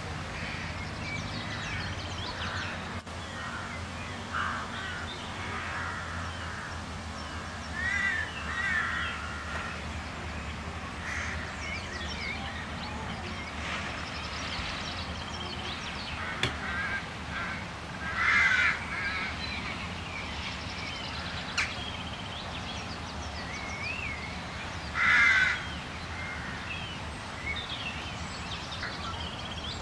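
Birds calling repeatedly in short calls, with louder bursts about 8, 18 and 25 seconds in, over a steady low hum.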